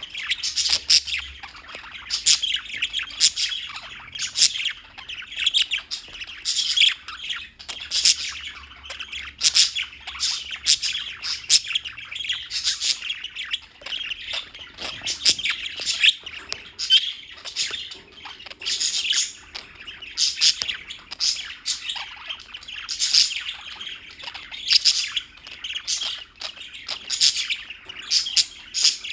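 Several small birds chirping continuously, many short high calls overlapping with no real pause.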